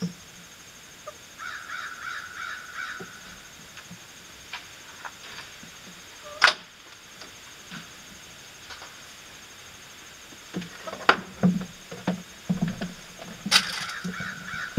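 Outdoor ambience: a bird calls in a quick chattering series twice, about a second and a half in and again near the end, with a few sharp clicks and low knocks in between. The loudest click comes about six and a half seconds in.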